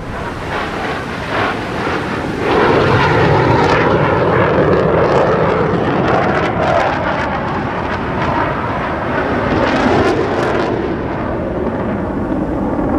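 Aircraft engine noise, a loud steady rush that grows louder about two and a half seconds in and holds, with brief crackles.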